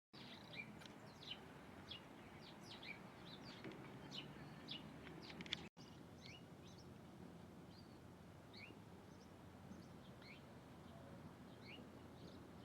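Birds chirping: many short, high chirps in quick succession, thinning out after a brief dropout about six seconds in, over faint background noise.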